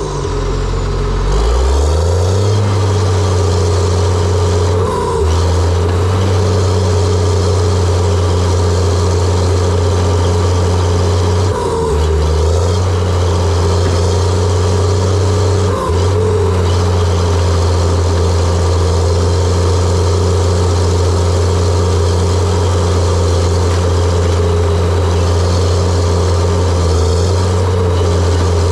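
Diesel engine of a John Deere 700J-II crawler dozer running steadily under load, its pitch dipping briefly a few times as the load changes.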